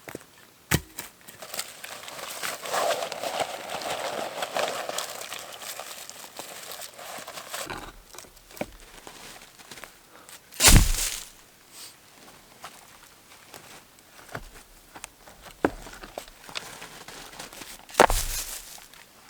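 Rustling and crunching handling noise, with scattered clicks and two loud sharp knocks, one about halfway through and one near the end.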